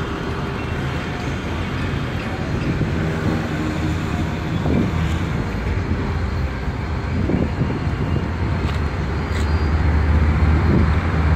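Karachi Circular Railway passenger train pulling away, its coaches rolling over the rails with a continuous low rumble that swells louder in the last few seconds.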